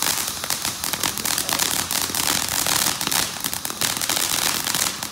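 Ground fountain firework crackling: a dense, rapid stream of sharp pops over a steady hiss.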